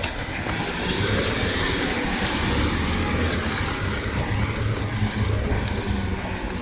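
A road vehicle driving past close by: a low engine hum and tyre noise that build over the first second and hold steady.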